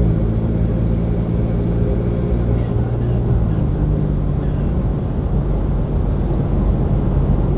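The 3.5-litre twin-turbo V6 of a 2011 Ford F-150 EcoBoost runs steadily through an MBRP turbo-back exhaust, with a low, even exhaust tone whose pitch eases down slightly a few seconds in.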